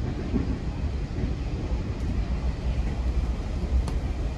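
GO Transit commuter train running along the track, heard from inside a coach: a steady low rumble of wheels on rails, with one faint click near the end.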